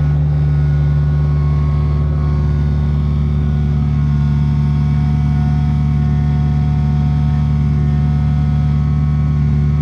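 Kubota U55-4 mini excavator's four-cylinder diesel engine running steadily under load, a loud, even drone with no change in pitch, as the machine works at its limit on the heavy concrete pipe.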